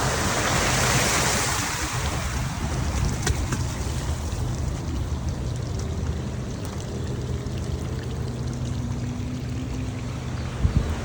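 Floodwater and traffic on a flooded street: rushing, splashing water over a steady low rumble, with a louder hissing swell in the first two seconds. A couple of sharp knocks come near the end.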